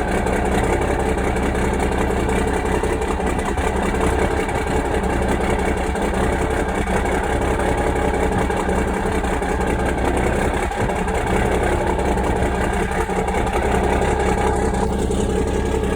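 Cummins 444 inline-six diesel in a 1988 Kenworth cabover idling steadily after a cold start, its exhaust coming out of shortened stacks.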